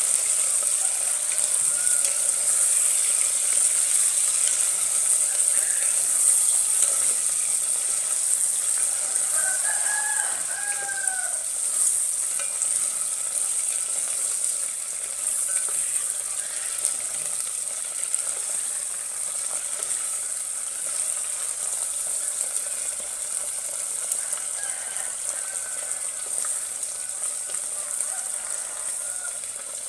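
Shrimp frying in a pot, a steady sizzle with the scrape of wooden spatulas as they are stirred. A rooster crows once in the background about ten seconds in.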